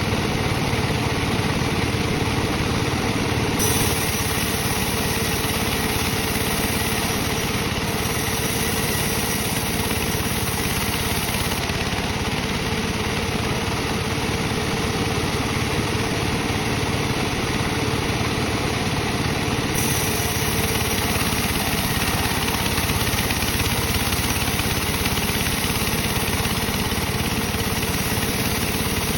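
Sawmill bandsaw running steadily while sawing dry teak, a continuous machine drone with no breaks.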